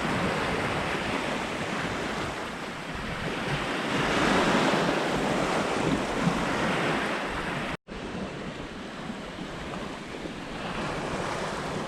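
Water rushing and washing along a sailboat's hull as it moves, with wind on the microphone. It swells louder around the middle and cuts out for an instant about eight seconds in.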